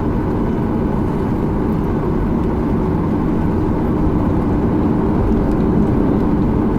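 Cabin noise inside a Boeing 737-800 taxiing on the ground, its CFM56 engines running at low taxi power. It is a steady, low-pitched noise that does not change.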